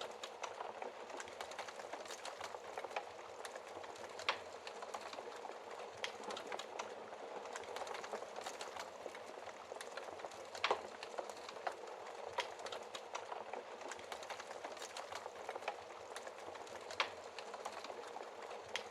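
Wood fire burning in a fireplace, crackling steadily with frequent small snaps and a few sharper pops of burning wood, louder ones about four seconds in, near the middle and near the end.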